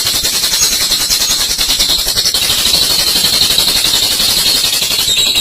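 Olive lovebird's long 'ngekek' call: a continuous, very rapid, high rattling chatter.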